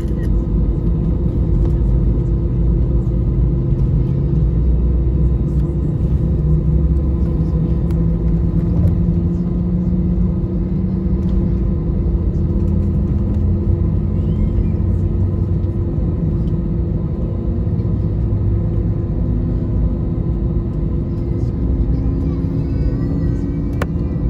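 Steady low rumble of an Airbus A320-200's jet engines and airflow heard inside the cabin, with faint engine tones slowly rising in pitch.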